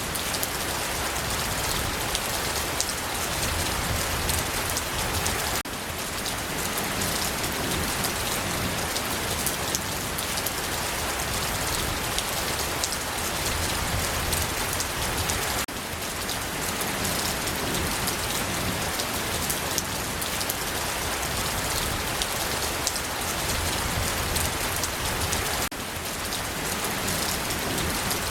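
Steady rain falling, a dense even hiss speckled with fine drop ticks, with a brief dip in level about every ten seconds.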